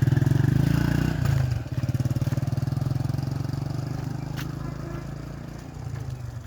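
A small engine running with a fast, even pulsing note, loudest at first, dipping about a second and a half in and then fading steadily, as if moving away.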